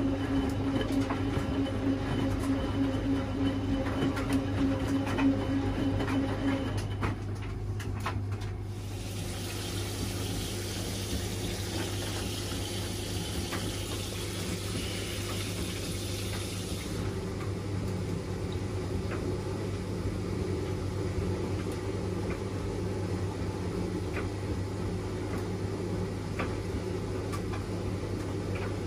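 Washing machine running: a steady motor hum cuts off about seven seconds in. A rushing hiss follows for about eight seconds, over a low steady hum.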